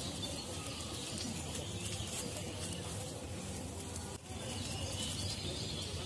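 Bird calls against a steady background noise, with a brief drop in sound about four seconds in.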